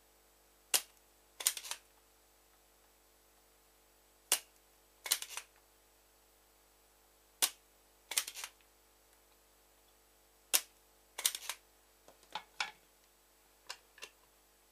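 Sharp plastic clicks and snaps from a Razer Taipan gaming mouse being worked on during a microswitch replacement. They come in a repeating pattern: one click, then a quick cluster of two or three a moment later, about every three seconds. Lighter clicks follow near the end.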